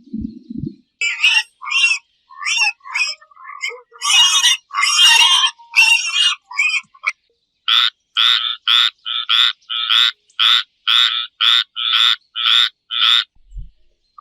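An animal calling: first an irregular run of short, harsh calls, then a steady series of about a dozen evenly spaced calls, roughly two a second.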